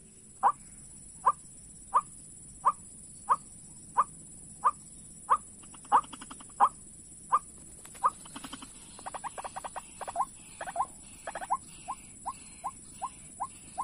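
White-breasted waterhen calling: a short sharp note repeated about once every two-thirds of a second, then a few seconds of rapid chattering, then the notes come faster, nearly three a second. A steady high hiss runs underneath.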